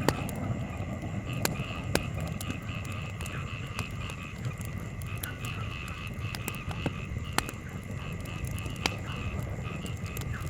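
Wood campfire crackling with scattered sharp pops, over a low steady rumble. A steady pulsing animal chorus runs underneath.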